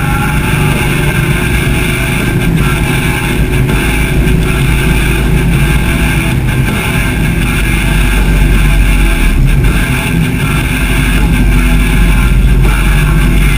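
Harley-Davidson motorcycle's V-twin engine running steadily under way, heard from a camera mounted on the bike, with a rushing noise over it.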